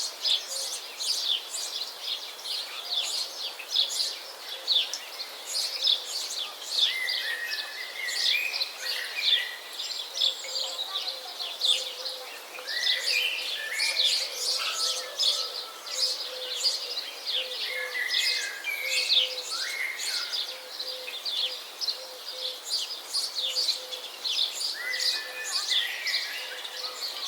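Several birds chirping and singing together: a dense, continuous run of quick high chirps, with lower warbled phrases breaking in every few seconds.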